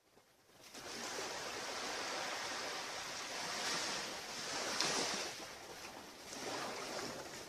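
Surf washing onto a beach, a steady hiss of breaking waves that swells and eases, loudest about halfway through.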